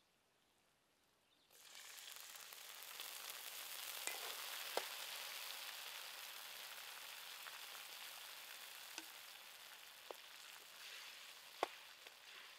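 Chili-garlic sauce frying in a hot wok: a steady sizzle that starts abruptly about a second and a half in. A metal spatula clicks against the wok a few times, most sharply near the end.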